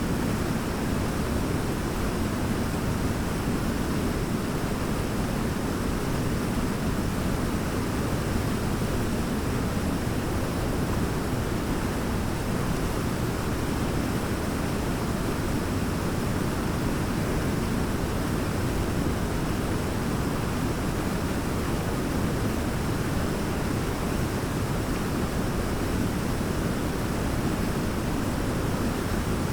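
Large waterfall: a steady, unbroken rush of falling water, heaviest in the low range.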